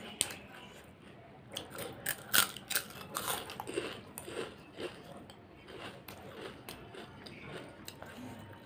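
Crisp fried papad being bitten and chewed close to the microphone: a run of sharp crunches from about a second and a half to four seconds in, loudest near two and a half seconds, then softer, sparser chewing clicks.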